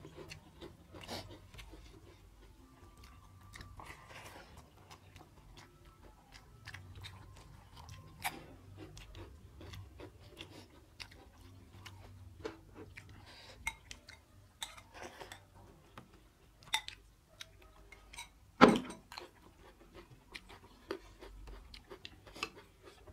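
Chewing of two people eating rice and mutton curry by hand, a soft run of mouth noises and short scattered clicks, with one much louder sharp snap about two-thirds of the way through.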